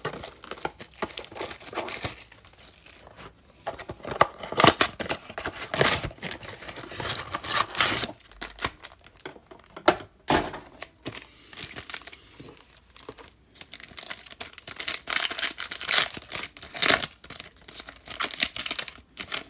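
Foil wrapper of a trading card pack being torn open and crinkled, an irregular run of crackles and rustles with sharp louder peaks.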